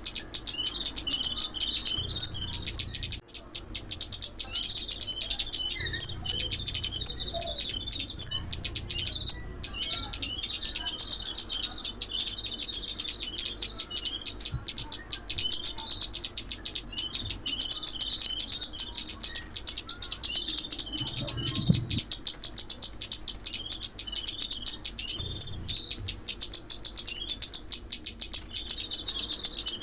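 Recorded calls of the small songbird known in Vietnam as ốc mít, played on a loop as a trapping lure: a fast, continuous stream of high, sharp chips and twitters, with a short break about nine seconds in.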